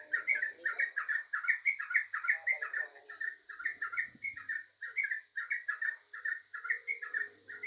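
Yellow-vented bulbul in full song, a rapid unbroken string of short bubbling chirps, about three or four notes a second.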